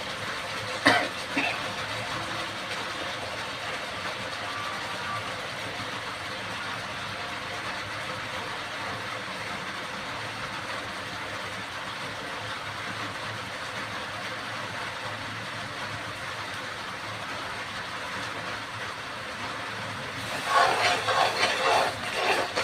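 Steady sizzling hiss of food frying in a pan on the stove, with a sharp knock about a second in. Near the end a spoon stirs and scrapes in the pan with a loud clatter.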